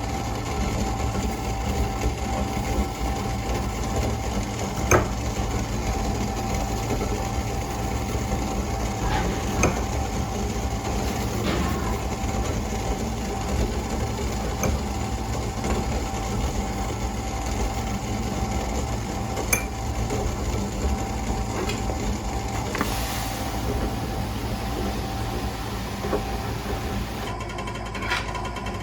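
Steady machine hum with a constant tone running through it, broken by a few sharp clicks or knocks.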